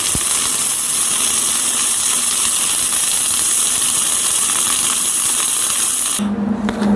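Electric arc welding a bead onto a steel hydraulic-axe blade: a steady hiss from the arc that stops about six seconds in, followed by a low steady hum.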